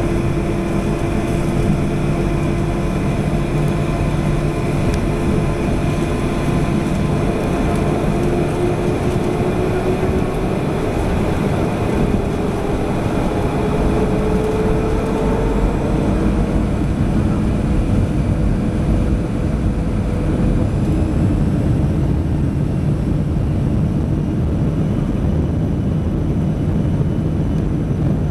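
Airliner engines at takeoff power heard from inside the cabin: a loud, steady rumble with a whine that rises gradually in pitch through the middle of the takeoff.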